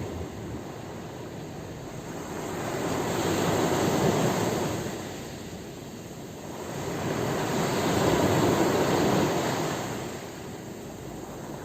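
Sea waves breaking and washing in, two swells building and easing away about four and a half seconds apart.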